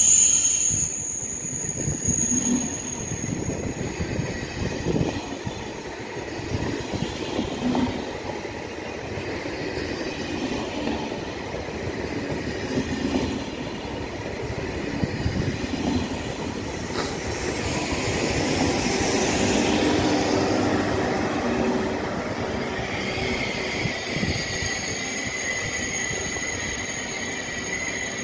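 TGV Duplex double-deck high-speed trainset rolling slowly past along the platform, its wheels and bogies rumbling and rattling over the track. A high, steady wheel squeal fades in the first second and sets in again near the end.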